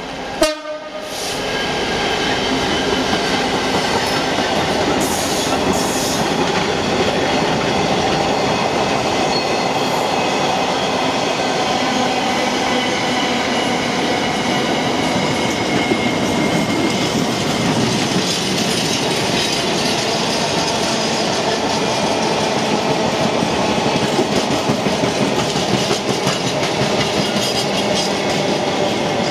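Long intermodal freight train of container flat wagons rolling past at speed: a steady rumble of wheels on rail with clickety-clack over the joints and touches of wheel squeal. A single sharp crack about half a second in is the loudest moment.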